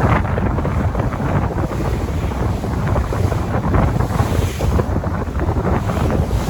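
Sea waves washing in with a steady rush of noise, overlaid by wind buffeting the microphone with a low rumble.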